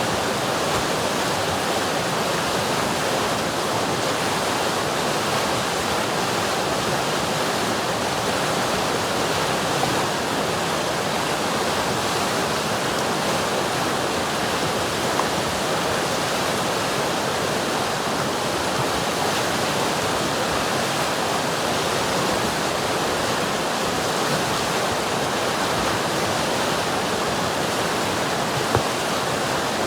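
River water rushing and churning, a steady, even rush with no let-up.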